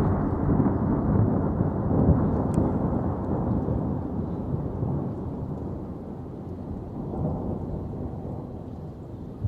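Rolling thunder, a deep rumble that is loudest over the first few seconds and then slowly fades away.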